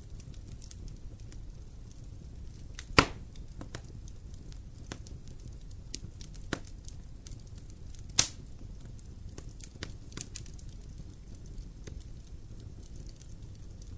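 Wood fire in a fireplace crackling: scattered small snaps over a low steady rumble of the flames, with two loud pops about three seconds in and about eight seconds in.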